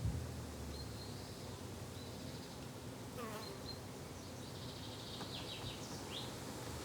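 Steady low buzzing of flying insects such as bees or flies in a summer garden, with a few short, high bird chirps over it, including one that falls in pitch about three seconds in.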